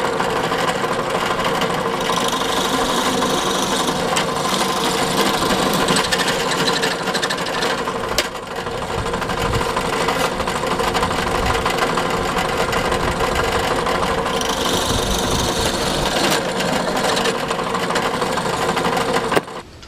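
Small benchtop drill press running with a 5/8-inch bit boring dowel holes in 3/4-inch pine. A steady motor hum is joined twice by the louder hiss of the bit cutting into the wood. The motor cuts off just before the end.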